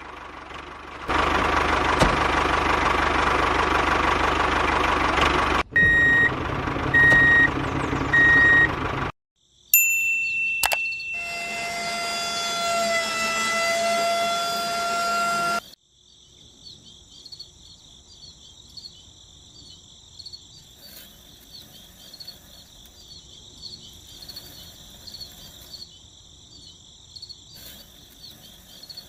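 A small motor running loudly for several seconds, with three short beeps near the end of the run. A brief series of pitched tones follows, then a change to crickets chirping steadily for the last half.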